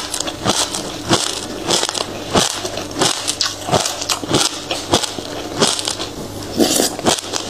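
Passion fruit seeds being crunched between the teeth: an irregular run of sharp, crisp cracks, about two a second.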